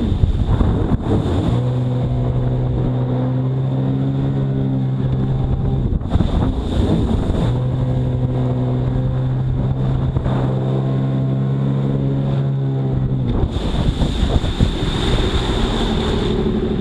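Jet ski engine running at a steady pitch in two long stretches, broken by rushing water and wind noise at the start, about six seconds in, and near the end.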